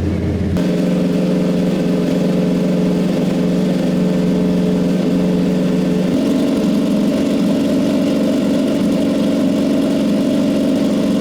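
Ducati Panigale V4 R superbike engine running at steady held revs, stepping up to a higher pitch about six seconds in.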